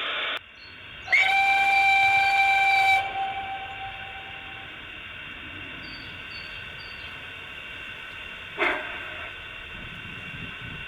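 Steam whistle of an O gauge model SNCF 141R steam locomotive, one long steady blast of about two seconds starting about a second in, over a steady hiss; a short sharp burst comes about three-quarters of the way through.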